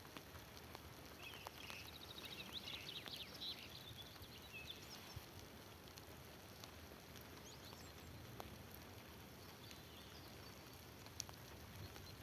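Faint chirping and twittering of small birds, strongest in the first few seconds, over quiet outdoor background noise.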